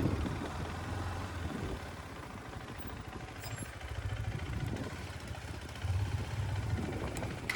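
Motorcycle engine running at low speed while the bikes are brought in to park, its low rumble swelling and easing several times.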